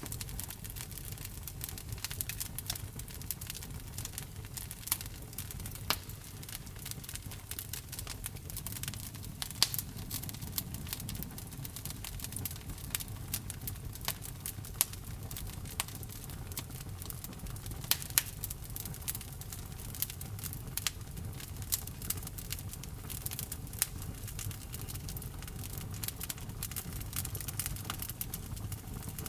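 Wood fire in a fireplace crackling, with irregular sharp pops from the burning logs over a steady low rumble of flames.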